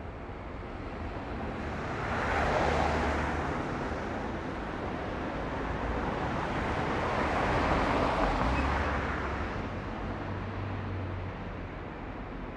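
Two vehicles passing one after the other, each a rush of tyre and engine noise that swells and fades over a few seconds, over a low steady rumble.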